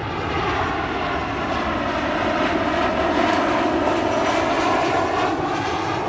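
Boeing jet airliner on landing approach passing low overhead with its engines throttled back near idle: a loud, steady jet rush with whining tones that bend in pitch as it goes by.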